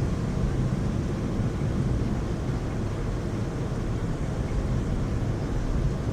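Heavy rainstorm at night: a steady, low rumbling wash of rain noise.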